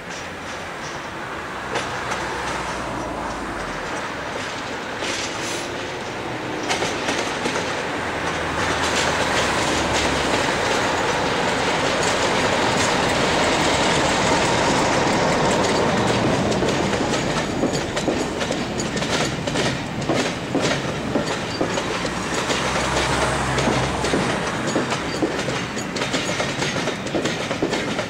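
Diesel locomotive hauling a train of passenger coaches, approaching and passing close by. Its engine hum grows louder to a peak about halfway through, then the coach wheels give a rapid clickety-clack over the rail joints and pointwork as the coaches run past.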